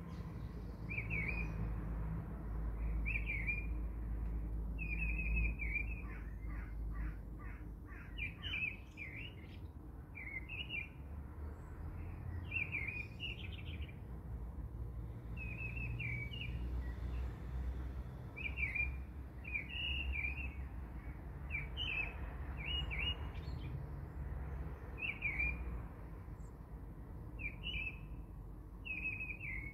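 A bird chirping: short chirps repeated every second or two, with a quick run of notes about six seconds in, over a low steady background hum.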